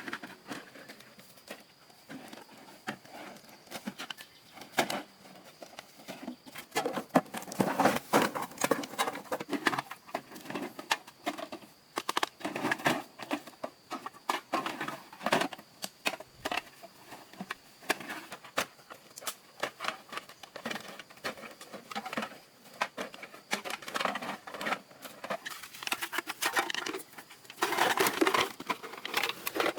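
Dense, irregular clicking and light knocking, as of small hard objects being handled, busier after the first several seconds.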